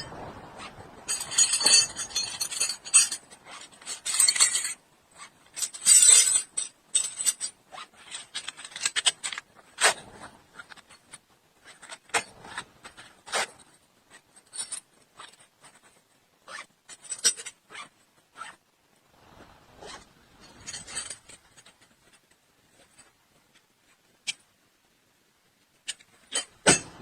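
Metal hand tools clinking and rattling as they are handled with a fabric tool bag, mixed with short rustles. The sharp clinks and handling noises are irregular, dense for the first several seconds and sparser and quieter later.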